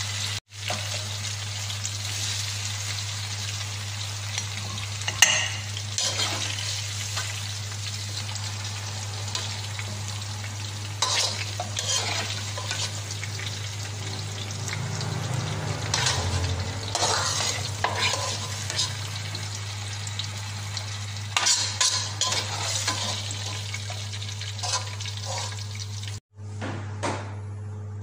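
Cubed potatoes and carrots sizzling in hot oil in a wok, with a spatula scraping and knocking against the pan as the pieces are stirred and scooped out. A steady low hum runs underneath. The sizzling breaks off sharply near the end.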